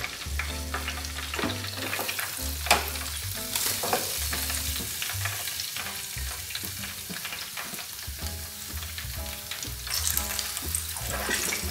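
Hot oil sizzling steadily in an electric deep fryer as a breaded tilapia fillet fries in the basket.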